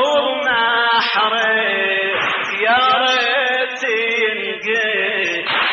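A man's voice chanting a Husseini lament (latmiya) unaccompanied, drawing out long, ornamented held notes that bend up and down in pitch.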